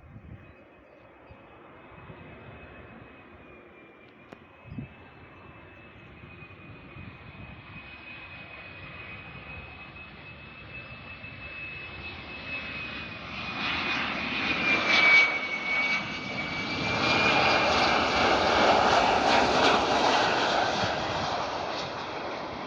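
Airliner taking off, its engines giving a steady high whine over a rumble that grows louder over about ten seconds and is loudest near the end. The whine drops slightly in pitch as the aircraft passes.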